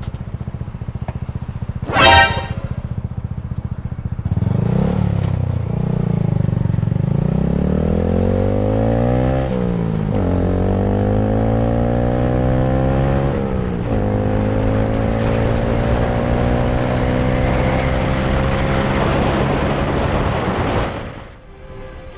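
Honda Grom's small single-cylinder four-stroke motorcycle engine idling, with a short horn beep about two seconds in. Then it pulls away, revving up and shifting up through the gears, the engine note dropping at each of three shifts and climbing again, before dying away near the end.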